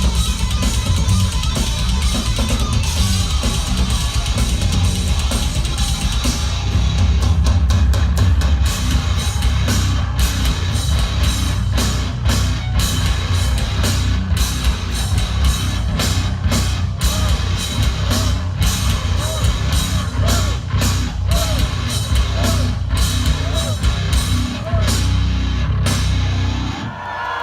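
A heavy metal band playing live, with guitar and fast, driving drums. The song stops abruptly near the end.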